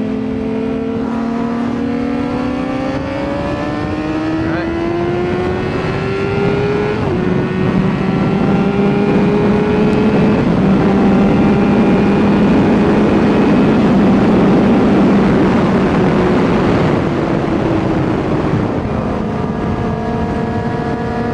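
Honda CBR600RR's inline-four engine accelerating, its pitch climbing with a short step at a gear change about seven seconds in, then a loud rush of wind at speed before the revs fall away near the end.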